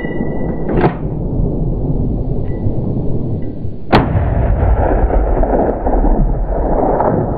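A hunting rifle shot about four seconds in, with a smaller sharp crack about a second in, over a steady low rushing noise.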